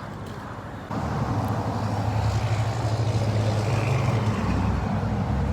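A car engine running with a steady low rumble that starts suddenly about a second in.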